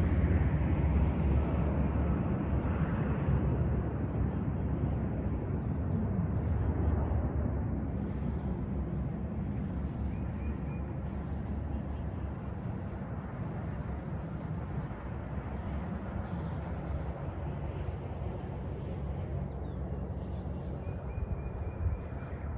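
Low, rumbling roar of an airplane passing overhead, loudest at first and fading slowly as it moves away; an odd rumble that the recordist cannot place and assumes is turbulence.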